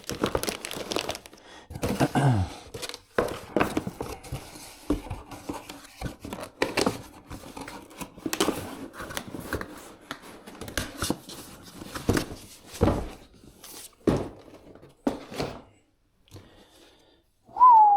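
Packaging being handled while parts of a trolling motor are unboxed: irregular rustling, crinkling and light knocks of plastic and cardboard. Near the end comes a short, loud, falling whistle-like squeak.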